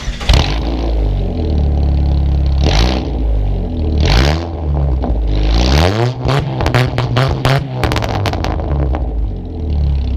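Chevy S10 pickup's engine through a loud full exhaust with a drilled-out catalytic converter, starting up warm and idling, then revved: a few single revs, then a quick run of blips with crackling before it settles back to idle.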